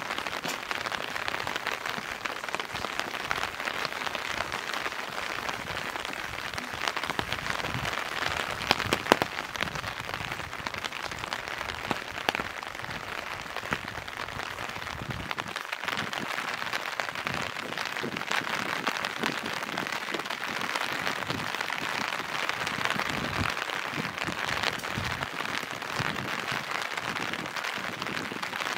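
Steady rain with many close, sharp drop ticks over an even hiss, a few louder drops about nine seconds in.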